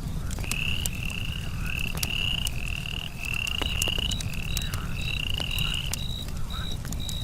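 A frog calling in a run of about a dozen short, even notes, roughly two a second, stopping about six seconds in. Under it a campfire crackles with scattered sharp pops. From about four seconds in, a cricket chirps in steady short high pips.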